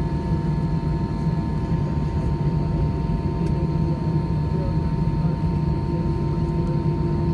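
Steady cabin hum inside an Airbus A320 on the ground after landing: a low rumble with a few steady whining tones above it.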